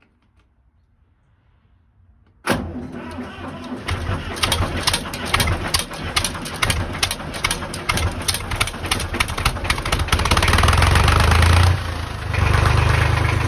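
1964 Deutz D40 tractor's diesel engine cold starting: after a couple of seconds of near quiet it suddenly fires with rapid knocking combustion strokes, catches, and runs rough. Near the end it rises to a steadier, louder run, dips briefly and settles into running.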